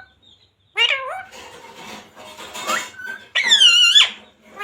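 Pet green parrot vocalising: a short bending call about a second in, a rasping chatter after it, then a louder, high-pitched call near the end.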